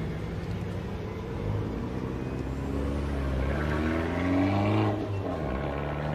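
A motor vehicle's engine revving: its pitch climbs for a few seconds, drops sharply about five seconds in, then starts climbing again.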